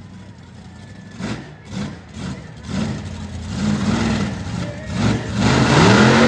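Monster truck's supercharged V8 engine revving up and down in repeated bursts, getting louder and rising in pitch near the end. A few short knocks come in the first couple of seconds.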